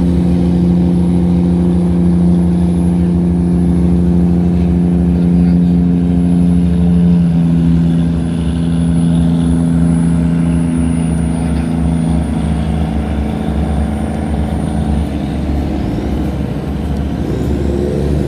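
Tugboat diesel engine running steadily as it passes, a low even drone that fades after about twelve seconds, leaving a lower rumble.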